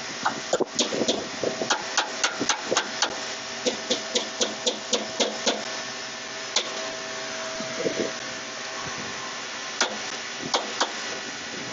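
Sharp hammer taps in irregular runs of several strikes, about two or three a second, during blower pulley and shaft-key work, over a steady hum.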